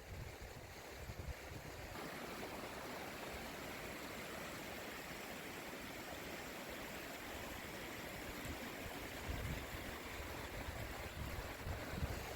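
River water flowing steadily, a continuous rushing hiss, with a few low rumbles near the end.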